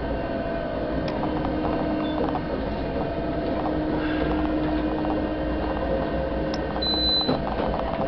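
Electric narrow-gauge mountain railcar running along the track, heard from inside the driver's cab: a steady rumble of wheels with a hum from the running gear and a few light clicks. A brief thin high tone sounds near the end.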